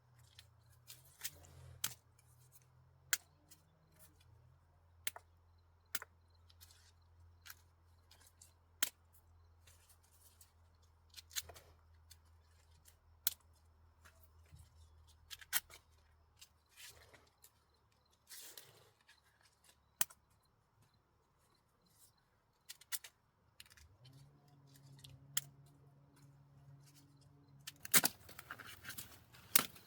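Irregular sharp snaps and crackles, one every second or two, with a denser flurry near the end: corn ears being snapped off dry stalks by hand. A faint low hum runs underneath for much of it.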